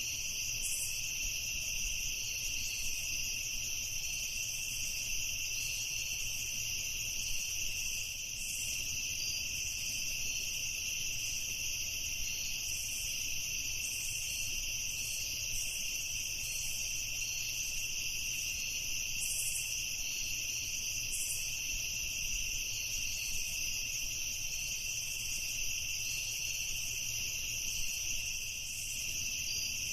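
Crickets chirping in a steady chorus: a continuous high-pitched trill at two pitches that does not change.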